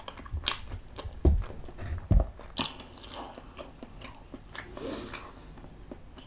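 A person chewing and biting food close to the microphone: wet mouth clicks and crunches, with two dull low thumps, a little over a second in and just after two seconds.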